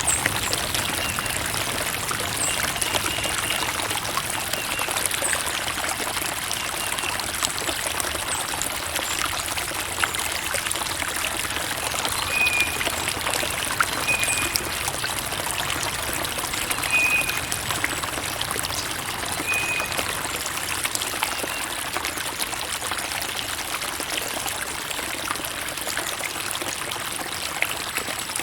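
Creek water trickling steadily, an even splashing rush with small surges.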